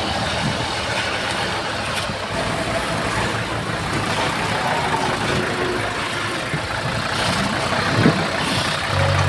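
Diesel engine of heavy earthmoving machinery running steadily, with one short knock about eight seconds in; a deeper, louder engine note comes in just before the end.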